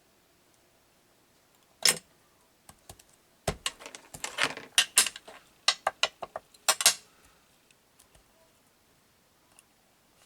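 Small craft tools and paper being handled on a work table: a scatter of clicks, taps and brief rustles from about two to seven seconds in.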